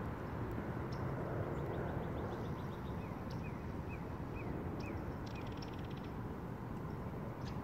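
Steady low outdoor background noise with a songbird singing over it: a quick run of faint high ticks, then about six short downslurred chirps at roughly two a second, ending in a brief rapid buzzy trill.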